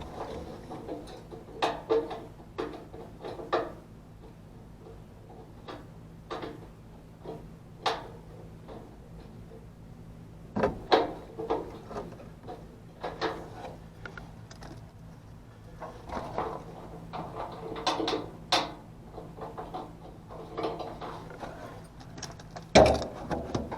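Scattered clicks, knocks and short scrapes of tools and parts being handled, irregular and a second or two apart, over a steady low hum.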